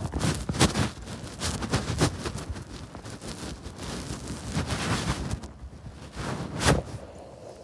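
Snow being scooped: a quick run of crunching, scraping strokes, with one sharper crunch near the end before it dies down.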